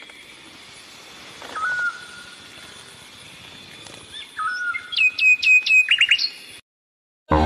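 A songbird singing in separate phrases: a short whistled note twice, then a quick run of bright, repeated notes in the second half.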